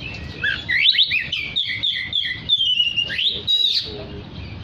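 Oriental magpie-robin (kacer) singing: a fast run of clear whistled notes, many sliding up or down, with a longer falling whistle near the middle.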